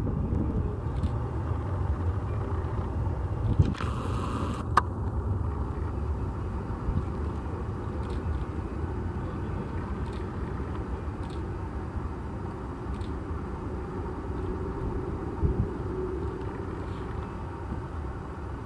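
Steady low rumble of a Boeing C-17 Globemaster's turbofan engines idling while it waits lined up on the runway, with wind on the microphone. A short hiss about four seconds in, ending in a sharp click.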